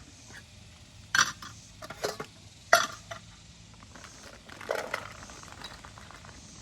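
Cooking pots and utensils being handled, giving four sharp clinks and knocks spread over a few seconds. The loudest comes just before three seconds in.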